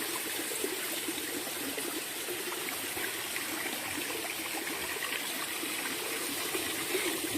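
Clear water of a small stream running and trickling steadily, with faint gurgling.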